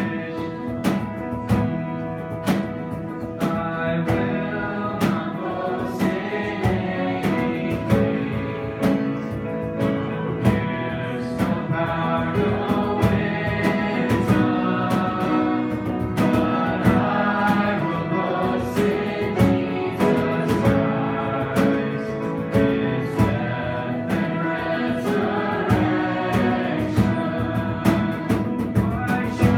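Worship song sung by a group of voices over guitar, with a steady beat.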